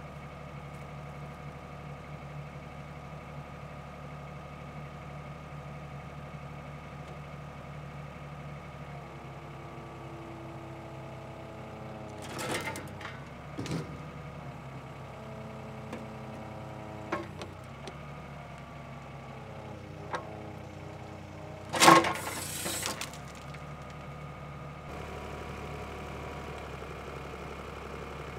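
Excavator engine running steadily; from about a third of the way in, its note shifts as it takes load, with a handful of sharp knocks. The loudest knock comes about two-thirds through.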